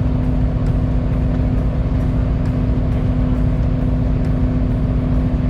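Fishing boat's engine running steadily under load with a constant low hum, with faint ticks recurring roughly every half-second.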